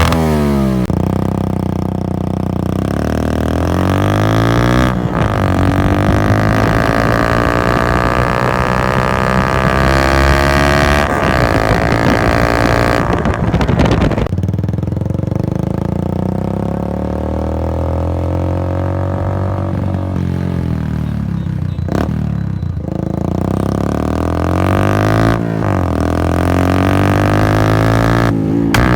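Yamaha FZ-S single-cylinder engine breathing through an aftermarket free-flow exhaust while being ridden. The engine note climbs and drops several times as the bike accelerates and shifts gears, with short breaks at each change.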